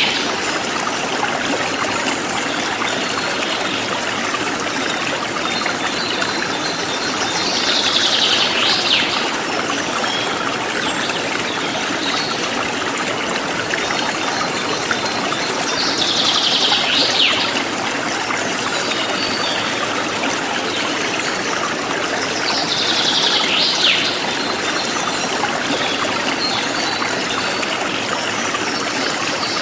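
Forest stream flowing steadily, a constant rush of water. A bird's short call, falling in pitch, comes three times, roughly every seven to eight seconds.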